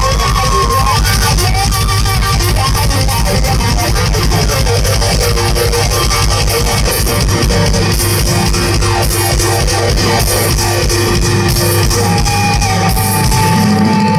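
Live reggae band playing an instrumental passage through the PA: guitar over bass and drums, with no vocals.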